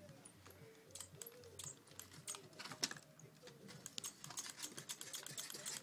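Faint, rapid, irregular clicks and taps of hands handling a partly disassembled laptop's parts.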